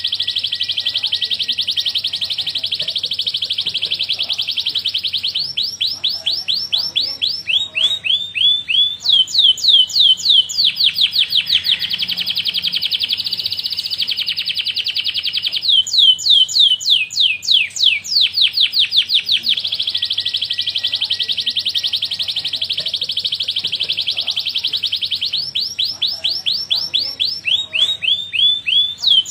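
Domestic canary singing a long unbroken song. Long fast buzzing rolls alternate with runs of quick down-sweeping notes.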